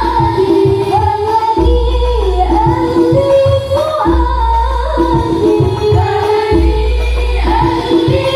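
A young woman sings a sholawat melody over hadroh percussion, with deep drum beats about once a second.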